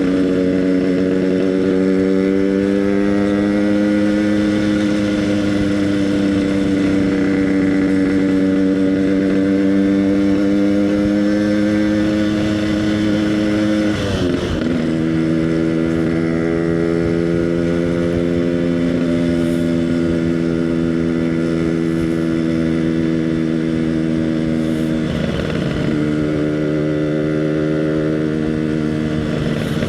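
Yamaha RX King two-stroke motorcycle running through an EnzyProject aftermarket exhaust at steady cruising revs. About halfway through the note breaks briefly and settles lower, and there are two more short dips near the end.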